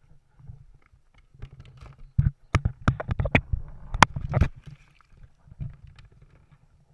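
Sharp knocks and clatter on a kayak, a quick run of about eight knocks about two seconds in, over a low rumble of water and wind on the microphone.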